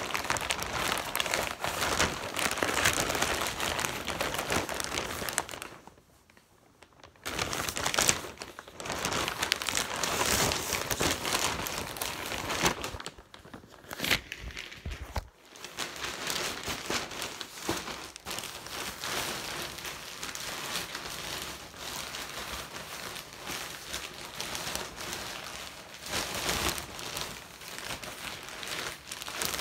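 Packaging crinkling and rustling as a boxed toy helicopter is unwrapped and handled, with two brief pauses.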